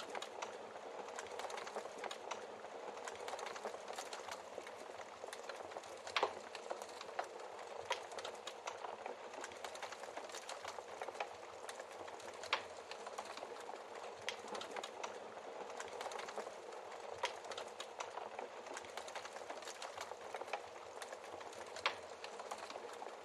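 Wood fire crackling steadily in a fireplace, with many small snaps and a few louder log pops.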